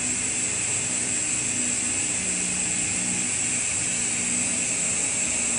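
Maxwell Hemmens model colliery steam engine running steadily on compressed air, with a constant high hiss of air over its low running beat.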